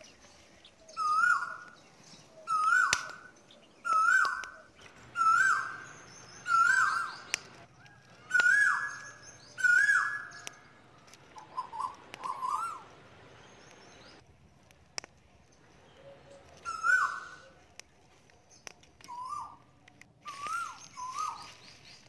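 A bird calling over and over: a short, loud, hooked note repeated about every second and a half, around eleven times, with a pause of a few seconds in the middle.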